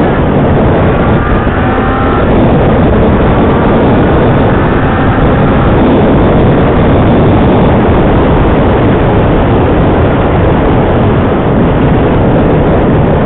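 Motorcycle under way, its engine pitch rising in the first few seconds as it accelerates, under heavy wind rush on the microphone.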